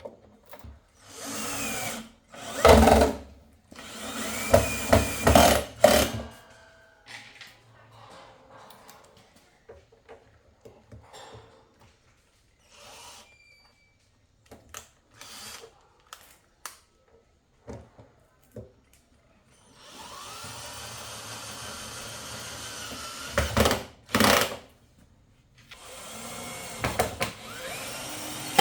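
A small power tool running in several short bursts, its motor speeding up as it starts, with clicks and knocks of handling between the runs.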